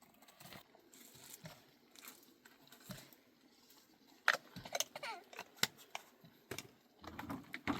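Faint scattered clicks and taps, with a few sharper knocks between about four and six seconds in; a low rumbling noise comes in near the end.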